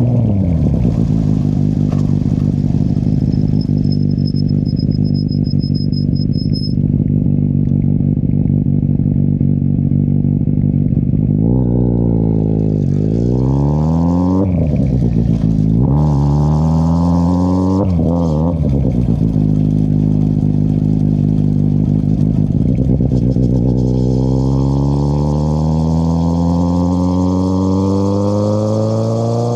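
2013 Kawasaki Z800's inline-four engine through an Akrapovic exhaust with the dB killer removed. The revs drop at the start and then hold steady. About halfway through they rise and fall several times in quick succession through the gears, then hold steady again, and near the end they climb slowly.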